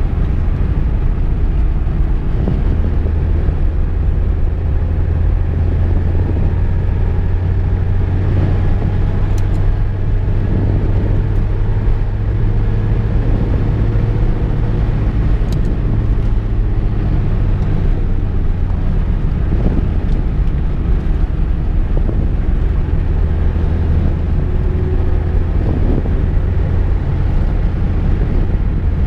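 Steady in-cabin drone of a VW Golf Mk2 driving: low engine hum and road rumble at a constant pace.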